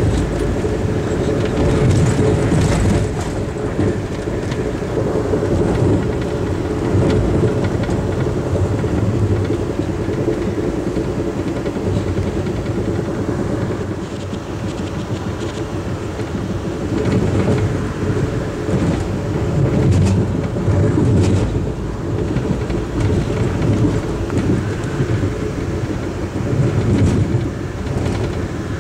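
Amtrak Hiawatha passenger coach at speed, heard from inside: a steady low rumble of wheels on rail, with a few sharp clacks about two seconds in and again about twenty seconds in.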